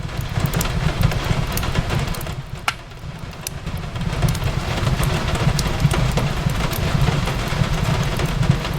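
Wood fire in a fireplace crackling, with scattered sharp pops over a steady low rumble, mixed with the even hiss of rain on a window. The sound dips briefly about three seconds in, then builds back up.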